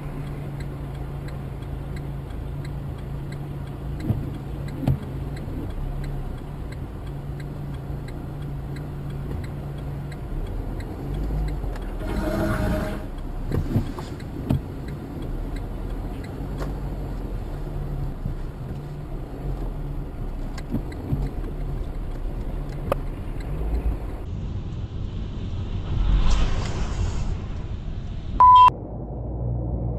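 Steady engine and road noise of a vehicle on the move, heard from inside the cab, with a low hum underneath. A brief, louder disturbance comes about twelve seconds in and another near the end, followed by a short, loud single-pitched beep.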